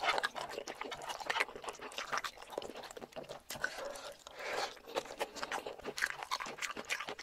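Close-miked eating: a person chewing and biting spicy boneless chicken feet, with irregular crunching clicks and crackles throughout.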